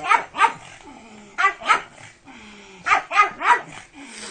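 Dog barking: two quick barks, two more about a second and a half in, then a fast run of four near the end.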